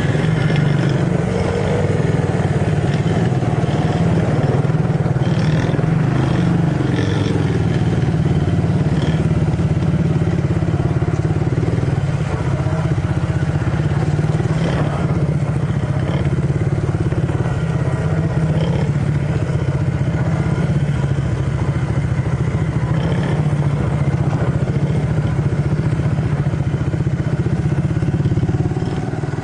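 Small off-road engines running steadily at low speed with a few light knocks along the way: a Yamaha TTR50 kids' dirt bike with its 50 cc four-stroke single, and a four-wheeler close by.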